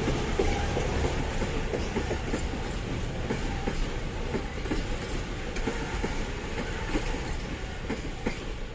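Train rolling along the tracks, its wheels clacking over rail joints in a run of irregular clicks over a steady rumble.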